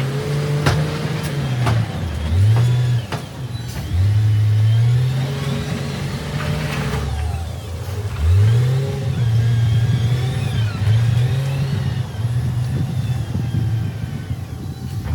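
Heavy machine's diesel engine revving up and easing off again and again as it works, with a few sharp clanks near the start.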